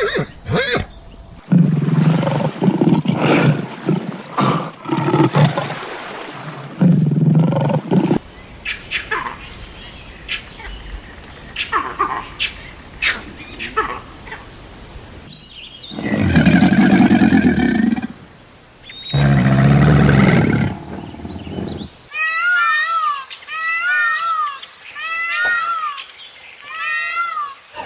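Animal calls: several loud, deep roars and growls, scattered knocks, then a run of five high, arched calls near the end.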